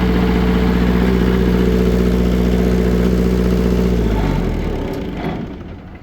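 Perkins engine with a bad cylinder and heavy oil blow-by, running steadily, then shut off about four seconds in and winding down to a stop within a second or so.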